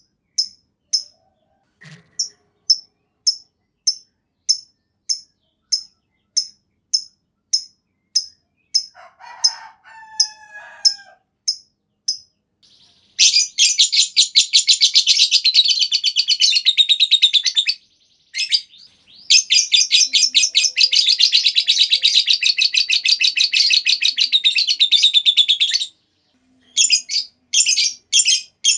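Lovebird calling: sharp high chirps, about three a second, for the first eight seconds. Then come two long ngekek, fast continuous chattering trills of several seconds each, the longer one about seven seconds. Short chattering bursts follow near the end.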